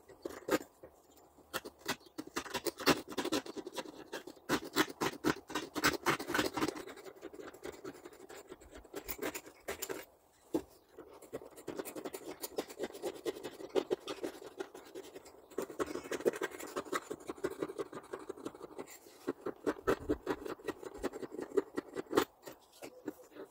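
Rapid, repeated scratching and scrubbing strokes on a part, in bursts with short pauses, as in hand-cleaning grinder parts.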